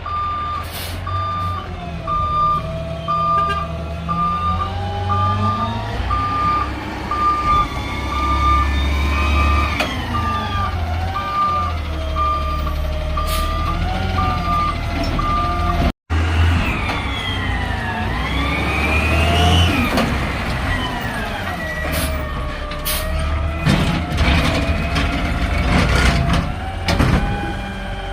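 Garbage truck reversing, its backup alarm beeping about once a second over a diesel engine that revs up and down. The beeping stops about halfway through, and after a brief cut the engine keeps revving, rising and falling in pitch.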